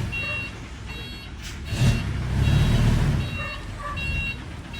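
Truck engine running with a low rumble that swells and drops, under a repeating electronic reversing beeper. A short hiss comes about a second and a half in.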